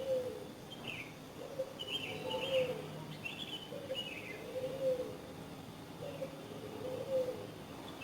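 Birds calling: a low two-note call repeating about every two seconds, with higher chirping notes over it in the first half.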